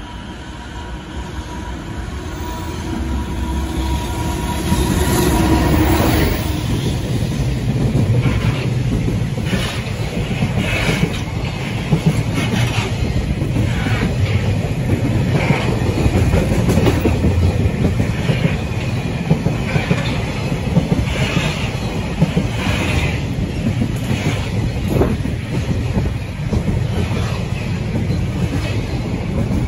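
Freight train of tank wagons and container flatcars passing close at speed, its wheels clattering over rail joints in a regular clickety-clack. The noise builds over the first few seconds as the train comes alongside, then holds steady.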